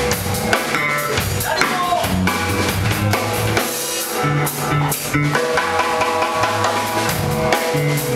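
Funk band playing: a busy drum kit with bass drum and snare, a stepping bass line, and pitched instruments on top.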